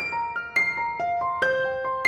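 Background music: a gentle piano-like melody of single notes struck about twice a second, each ringing on and fading.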